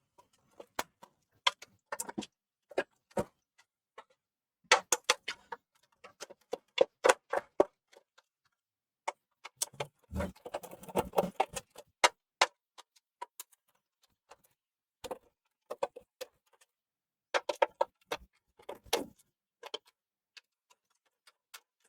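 Irregular clicks, taps and clatter of small plastic and metal parts being handled as the PS4 Slim's internal power supply is taken out, in scattered clusters with a denser stretch of rustling and knocking about ten seconds in.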